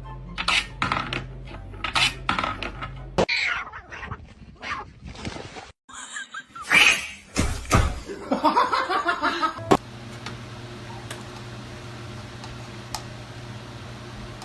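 A run of short, abruptly cut clips of laughter and brief voice sounds, then a steady low hum over the last few seconds.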